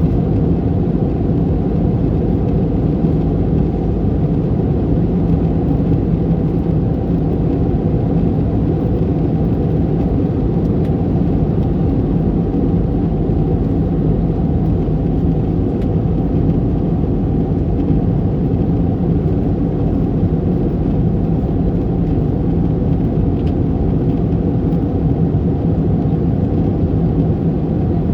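Steady cabin noise inside an Airbus A321neo airliner: an even, unchanging low drone of the engines and airflow, with no rise or fall.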